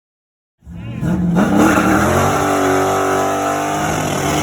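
Silence, then about half a second in a car engine comes in and revs up, holding at high revs.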